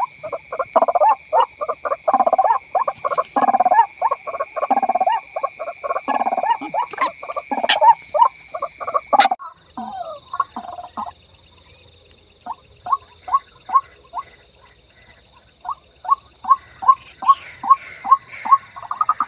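White-breasted waterhen calls, harsh croaking notes repeated in a fast, crowded chorus, then after a short lull a steady run of single calls about two or three a second.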